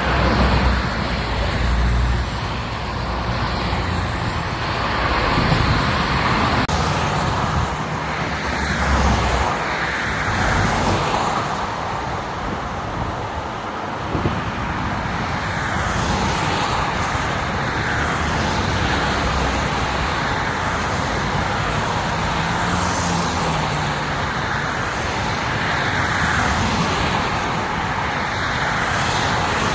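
Highway traffic: a steady rush of tyre and engine noise, with vehicles swelling past several times in the first ten seconds.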